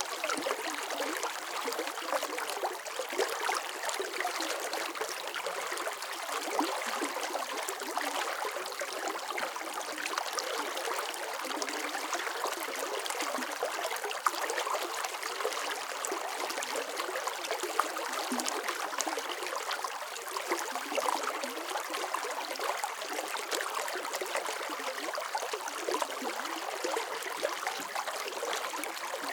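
Running water: a small stream flowing and trickling steadily, with a constant bubbling splash.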